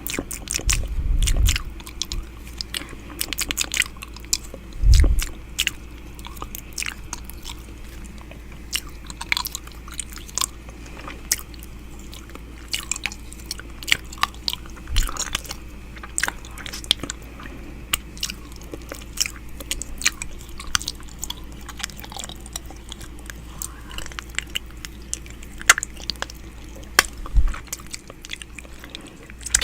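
Wet mouth sounds close against a microphone, as in ASMR ear eating: a stream of irregular sharp clicks and smacks, with a few low thumps scattered through.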